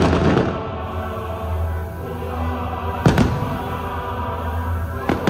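Fireworks show with its choral show music: sustained choir and orchestra chords, with firework bursts at the start, about three seconds in, and again at the end.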